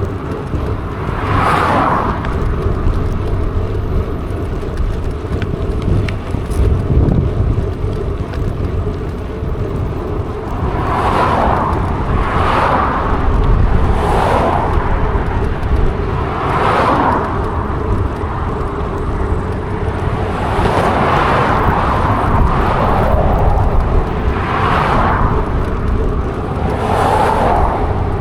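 Wind buffeting the microphone with a steady low rumble while riding, as a string of cars go past one after another, each a swell of tyre and engine noise lasting about a second.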